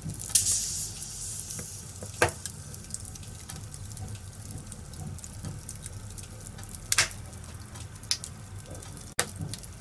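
Log fire in a fireplace crackling steadily over a low rumble, with a handful of sharp pops of burning wood spread through.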